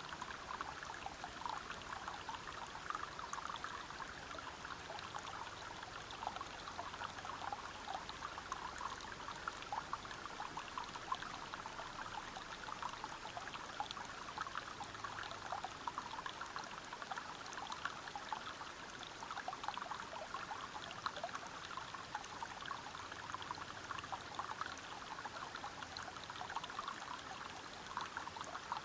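River water flowing and splashing over rocks: a steady, even rush with many small splashes and trickles.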